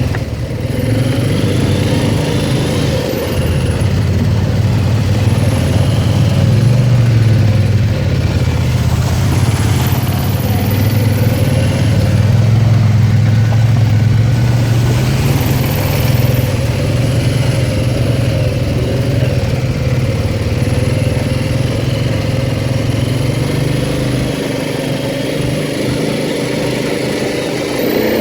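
ATV engine running steadily while the quad is ridden, its low drone swelling and easing with the throttle.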